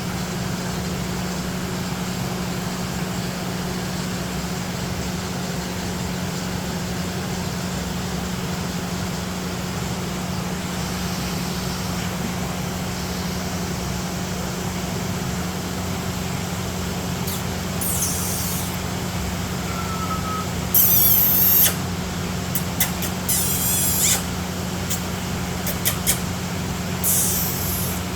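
A steady low hum with a constant hiss underneath. In the last third, several short, sharp, very high-pitched rasping bursts come in, the loudest about two thirds of the way through.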